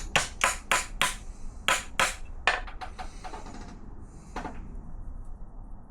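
Hammer striking metal: a quick run of about six blows in the first second, then a few slower, spaced strikes, the last about four and a half seconds in, working at a stuck engine fastener that had been slipping.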